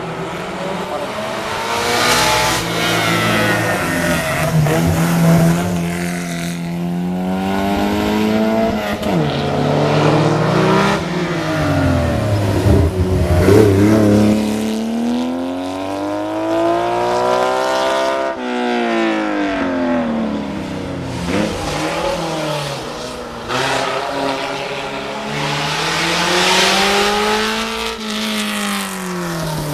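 Racing car engine at full throttle on a hill climb, its pitch rising and falling again and again as it changes gear and brakes for bends, with sharp drops in pitch about 18 seconds in and near the end.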